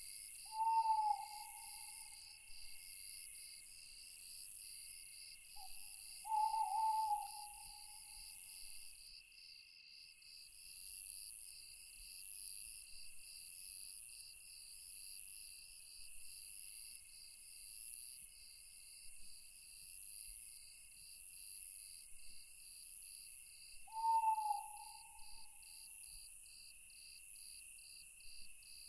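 Night insects, crickets, keep up a steady high pulsing chorus. An owl hoots three times over it, each a single drawn-out hoot: one near the start, one about six seconds in, and one well after twenty seconds.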